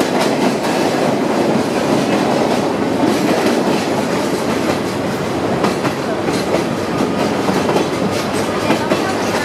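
Loud, steady running noise of the Arashiyama torokko sightseeing train heard from inside its open-air car: a dense rattle and rumble of wheels on rail and the shaking carriage, with a few faint clicks in the second half.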